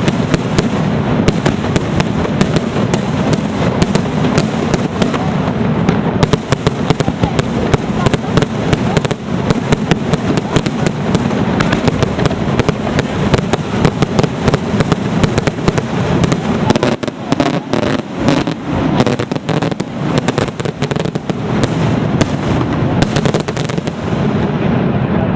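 Fireworks display firing a dense, unbroken barrage of rapid bangs and crackling, many reports a second with no pause.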